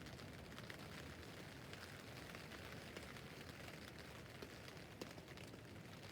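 Rain on a tent roof: a faint, steady patter of many small drops on the fabric, with a couple of sharper drop hits about four and a half and five seconds in.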